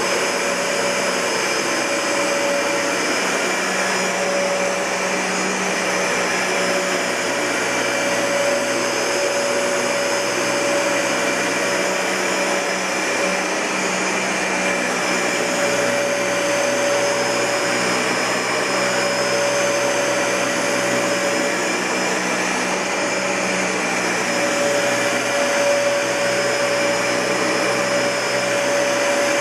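Dyson Ball Multi-Floor (UP13) bagless upright vacuum cleaner running steadily: an even rush of air with a fixed motor whine on top.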